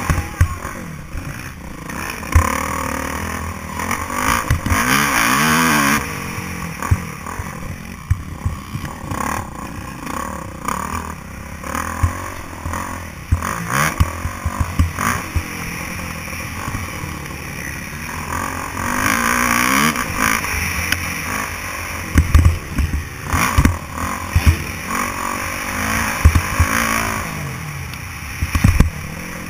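Motocross dirt bike engine revving up and dropping back again and again as it races, with sharp knocks and clatter.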